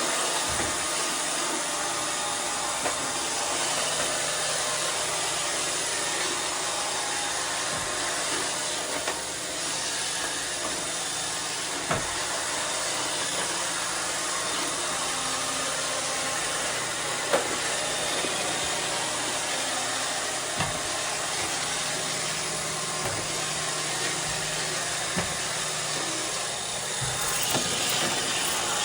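iRobot Roomba 630 robot vacuum running, with a steady whirring hiss from its vacuum and brushes. Its bin motor has been freshly oiled. A few short knocks come through along the way.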